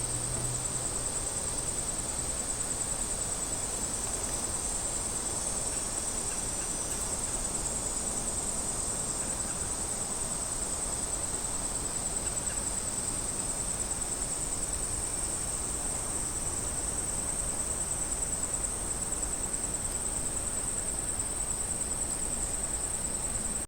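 Cicadas buzzing in a steady, unbroken high-pitched drone that stops abruptly at the end.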